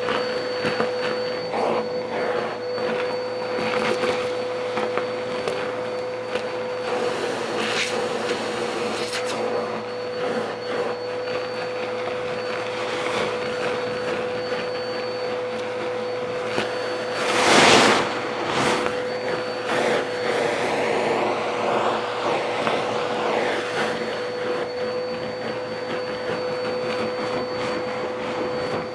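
A motor-driven machine running steadily, with a constant whine over a rushing noise, scattered knocks, and one louder rush a little past halfway.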